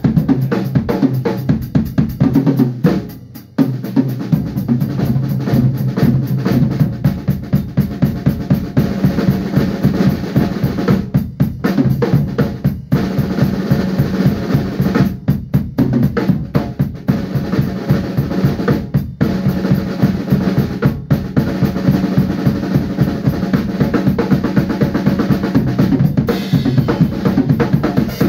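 A band playing, driven by a drum kit: a fast, steady beat of bass drum and snare hits over sustained low notes, with a few brief breaks in the drumming.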